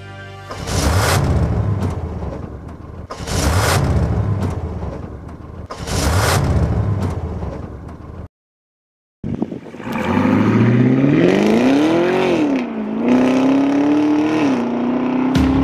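Three loud surges of car noise, each a couple of seconds long. After a brief break, a pace car accelerates away: its engine pitch climbs steeply, drops at a gear change about two-thirds of the way in, and drops again at a second shift near the end.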